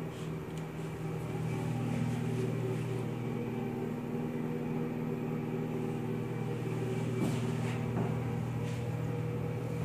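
A steady low electrical hum, as from a small motor or fixture in the bathroom, with a couple of faint knocks about seven and eight seconds in.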